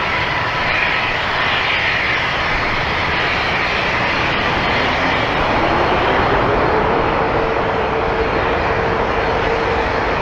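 Jet engines of a Boeing 777-9 airliner, its GE9X turbofans, giving a loud steady roar as the aircraft passes close by. From about halfway in, a steady whine rises slightly in pitch over it.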